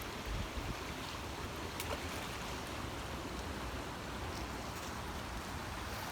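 Fast-moving floodwater in a swollen creek rushing steadily.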